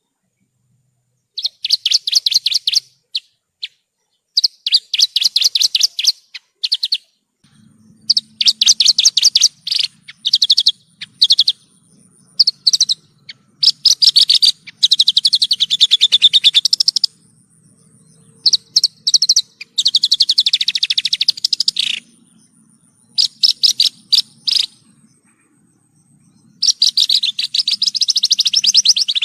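Javan bush lark (branjangan) singing: fast chattering phrases of rapidly repeated high notes, each a second or two long, broken by short pauses.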